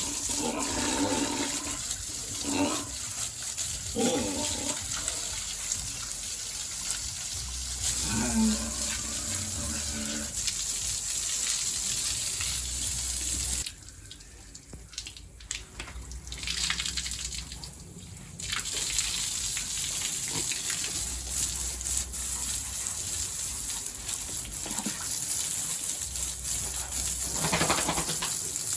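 Water running or spraying steadily, as when a pig pen is washed down. It drops away suddenly a little before halfway through, then comes back about five seconds later.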